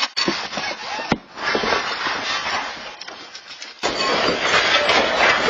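Earthquake shaking: loud, noisy rattling and clattering of shaken objects, with a sharp knock about a second in and a rise in loudness near four seconds.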